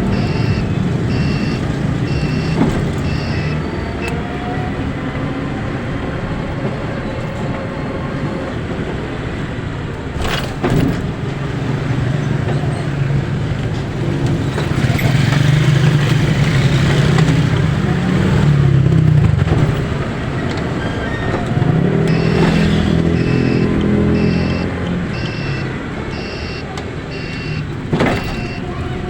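Road vehicle engine running amid traffic noise, its engine note rising twice: once around the middle and again a little past two-thirds of the way through. A high electronic beep repeats about twice a second at the start and again near the end.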